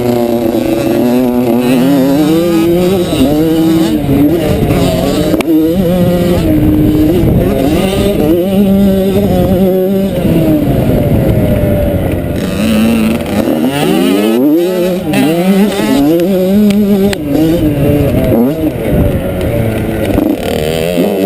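Motocross bike engine running hard, its pitch climbing and dropping again and again as the throttle is opened and closed, with a brief drop in revs a little past halfway before it winds up again.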